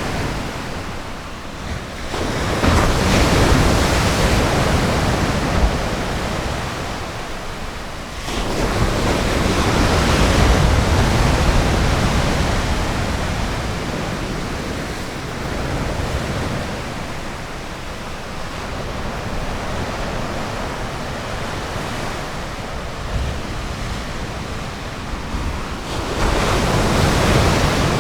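Ocean surf breaking on a sandy bay beach, a steady wash of waves that swells louder as each wave comes in: about two seconds in, about eight seconds in and again near the end.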